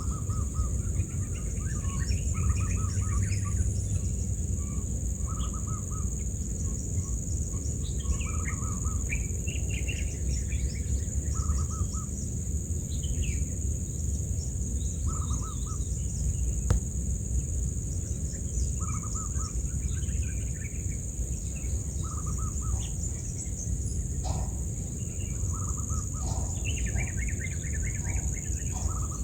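Birds chirping in short repeated calls over a steady high-pitched insect buzz and a low rumble of background noise, with one sharp click just past halfway.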